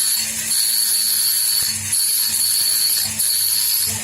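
A high-pitched power tool running with a steady whine that drops out briefly three times.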